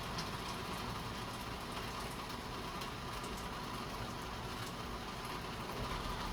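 Steady hiss of light rain mixed with the even whir of an electric fan running, with faint scattered ticks of drops.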